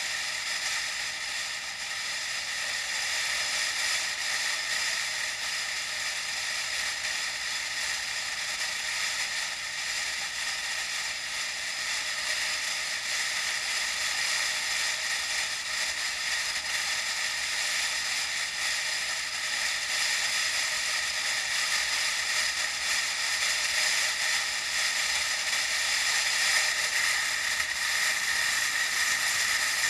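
Steady hissing rush of wind and road noise picked up by an action camera riding on a moving bike, with no change in pace.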